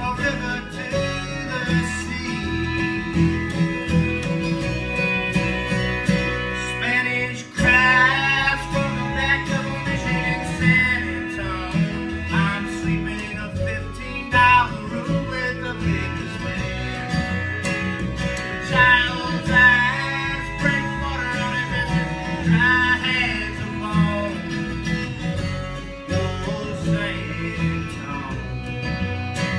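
Acoustic string band music in a country/bluegrass style: guitar and other string instruments playing an instrumental passage, with a brief dip in level about seven seconds in.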